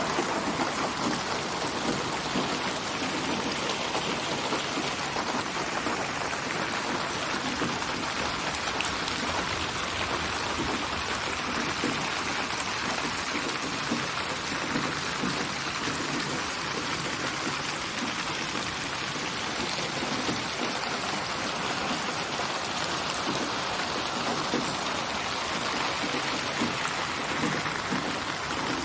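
Steady rainfall, with drops pattering on a surface.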